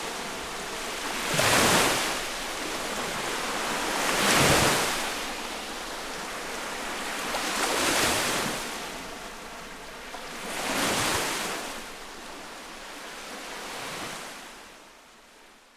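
Lake waves washing onto the shore close up, a rushing surge of water about every three seconds, five in all. The sound fades out near the end.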